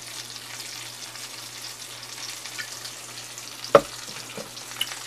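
Bacon and sausage sizzling in a frying pan, a steady fine crackle over a low hum, with one sharp knock a little under four seconds in.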